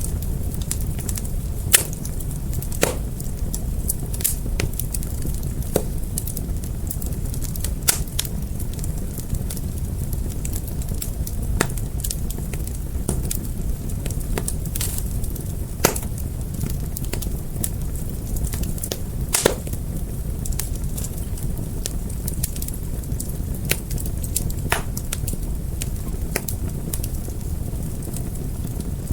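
Fire crackling, with irregular sharp pops standing out every few seconds over a steady low rushing noise.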